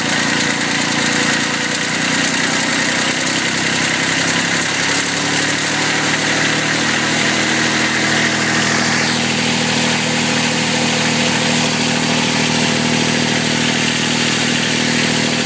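Kubota tractor's diesel engine running steadily at idle, shortly after a cold start.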